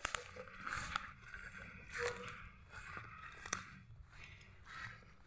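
Handling noises: scraping and rustling with a few sharp clicks, the loudest right at the start and about a second in.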